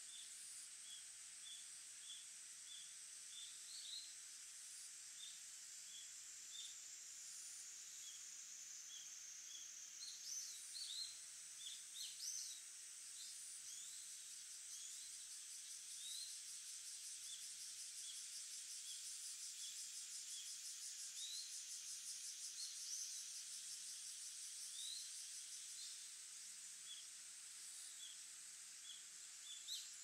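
Small songbird chirping: short high call notes repeated about twice a second, with a flurry of rising notes about a third of the way in, then sparser calls, over a steady high hiss.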